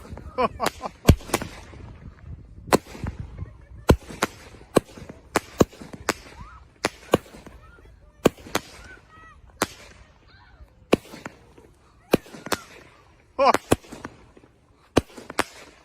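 Daytime parachute firework shooting Canadian-flag parachutes into the air: a long run of sharp pops and bangs at uneven spacing, about one or two a second, as each shot is launched.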